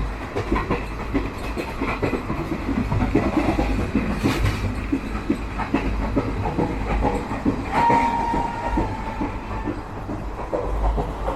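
Interior of a moving Garib Rath Express AC chair car coach: the steady low rumble of the running train with rattling and clickety-clack of the wheels over the rails. About eight seconds in, a short steady tone sounds for around a second.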